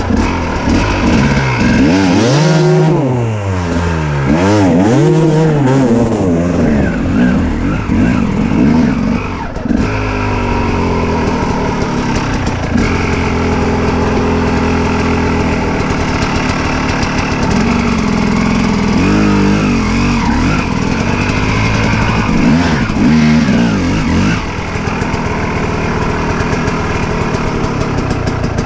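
Enduro motorcycle engine revving up and down several times in quick succession, then running at a steadier pitch with smaller rises and falls as the bike rides on.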